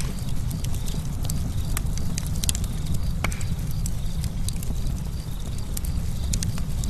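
Campfire crackling: a steady low rumble of burning with many quick pops and snaps, one louder pop about three seconds in.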